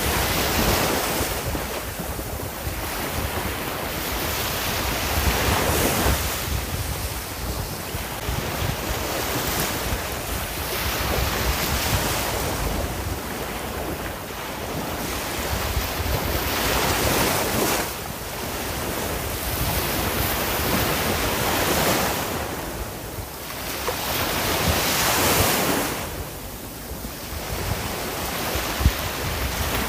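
Ocean waves breaking on a shore: a continuous rushing surf that swells and falls back about every four seconds.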